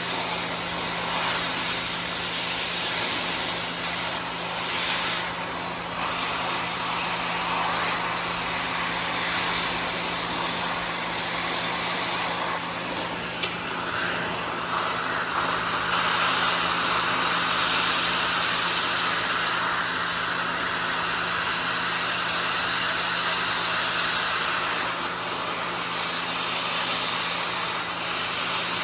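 Oxy-acetylene torch with a scarfing tip gouging out welds: a steady, loud hiss of the cutting-oxygen jet blowing molten steel out of the joint, swelling and easing slightly as the torch moves.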